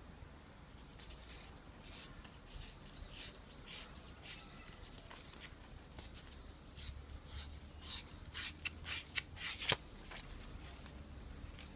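Small scrapes and clicks of hand work with tools and small parts, coming thicker in the second half, with one sharper click near the end.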